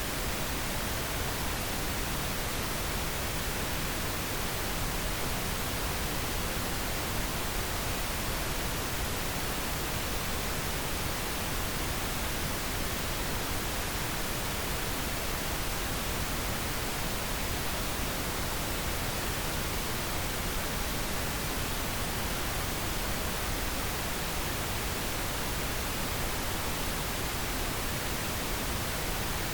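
Steady pink noise: an even, unbroken hiss across the whole range with no changes in level.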